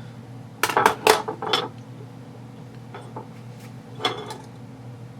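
Small metal airsoft gearbox parts clinking against each other and the work surface as they are handled: a quick run of clinks about a second in, then a few single clicks, over a steady low hum.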